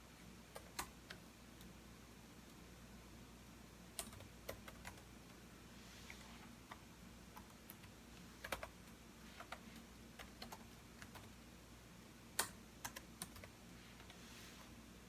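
Computer keyboard typing in sparse, irregular clusters of keystrokes with pauses between, as an essay is written. A faint steady low hum lies underneath.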